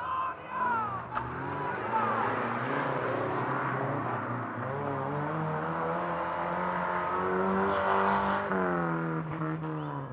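Off-road 4x4 engine revving hard under load in deep mud, its pitch climbing steadily for several seconds and then dropping off about eight and a half seconds in.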